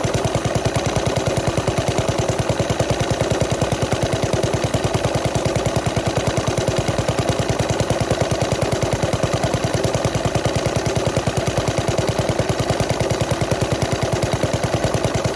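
Small antique stationary gas engine of the kind built to drive a cream separator, running steadily with a rapid, even beat of exhaust pops.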